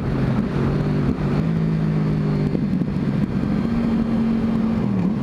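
Yamaha R1 sportbike's inline-four engine running under way during a second-gear clutch-up wheelie. Its note drops at the start, climbs in steps, holds steady, then dips briefly and comes back near the end.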